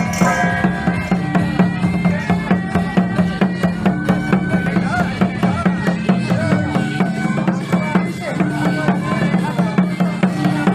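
Temple procession music: drums and percussion beating steadily at about three strokes a second under sustained melodic tones.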